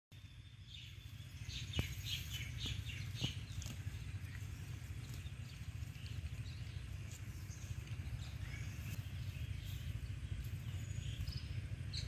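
Small birds chirping in quick runs of short, high notes, a burst in the first few seconds and scattered calls after, over a steady low rumble and a couple of sharp clicks.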